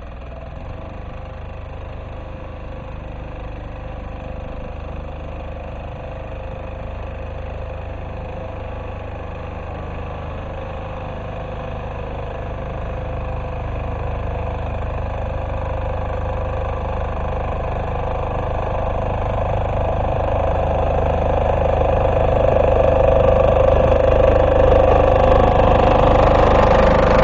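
Single-cylinder diesel engine of a Neva MB-2 walk-behind tractor running steadily under load while plowing, growing steadily louder.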